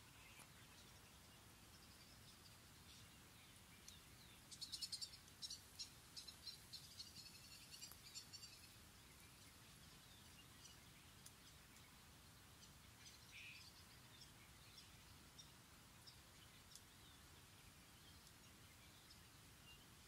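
Faint songbird calling: a quick run of rapid, high chirping notes starting about four seconds in and lasting about four seconds, then scattered single chirps over a faint steady outdoor hiss.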